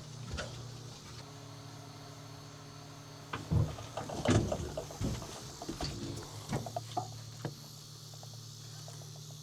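A run of short knocks and clatters over about four seconds, from gear being handled in a small boat, over a steady background of chirring insects.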